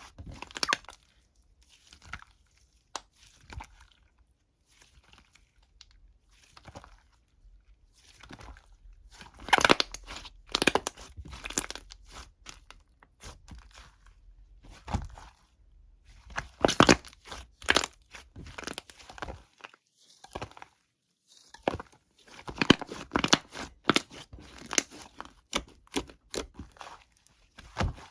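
Irregular crisp crunching and crinkling sounds, coming in clusters of quick strokes with short pauses between them.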